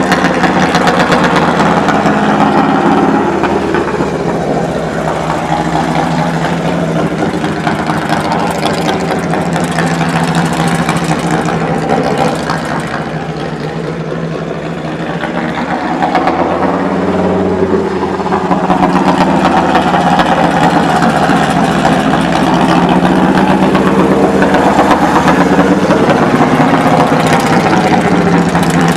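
Custom trike's motorcycle engine running at idle, its pitch wavering slightly, with a quieter stretch in the middle before it picks up again.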